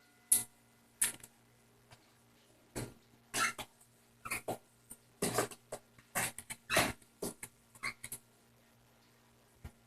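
A pet being bathed: short, irregular bursts of splashing and rustling, some with a brief squeaky tone, separated by quiet gaps.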